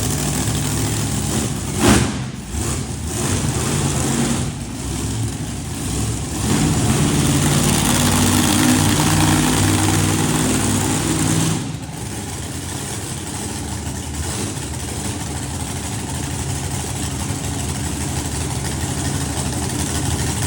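A vehicle engine running steadily, with a sharp knock about two seconds in. The engine grows louder for several seconds midway, then drops back suddenly to a steady, lower run.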